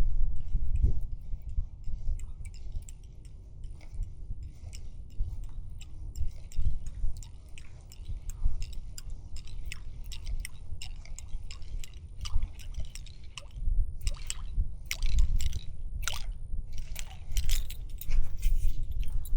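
Wind buffeting the microphone, a gusting low rumble, with scattered clicks and rustles of handling that come thicker in the last few seconds.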